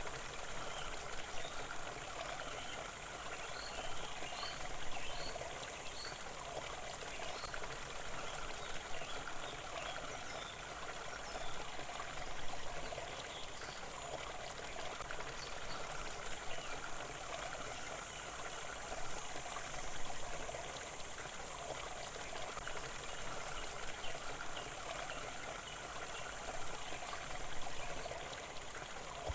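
Running water of a stream, a steady trickling babble that swells and eases every few seconds.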